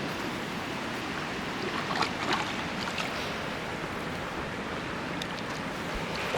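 Creek water rushing steadily, with a few faint clicks about two seconds in.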